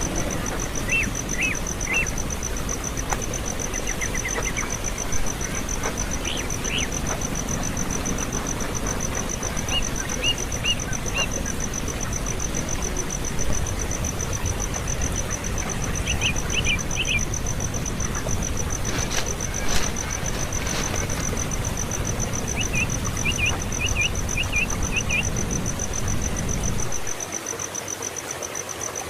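Nestling birds chirping in short bursts of three to six quick high chirps every few seconds, over a steady high insect trill. A low rumble runs underneath and cuts off near the end.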